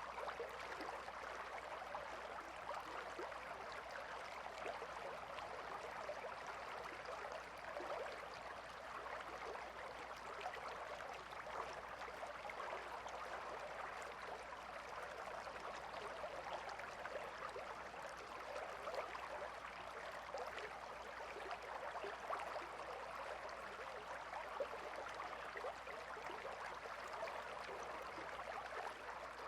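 River water flowing steadily, with a continuous babbling and gurgling that holds even throughout.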